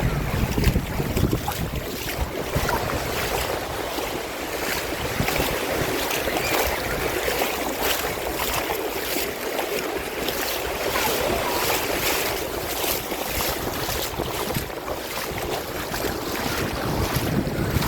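Sea water washing and splashing close by, with wind rumbling on the microphone, strongest in the first couple of seconds.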